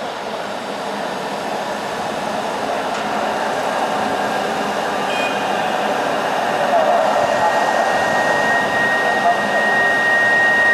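High-speed electric train approaching the platform: a steady rushing hum that grows gradually louder, with a thin high whine coming in about three quarters of the way through.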